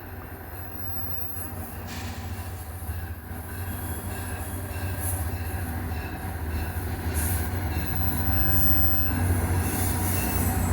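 GP40PH-2 diesel-electric locomotive, with its EMD 645 prime mover, approaching at the head of a passenger train, with a low engine drone growing steadily louder. High-pitched wheel squeal comes and goes on top.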